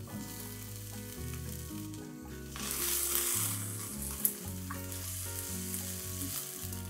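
Diced onion hitting hot oil in a nonstick frying pan and sizzling as it is stirred with a spatula; the sizzle swells about three seconds in, and a single sharp tap comes about a second later.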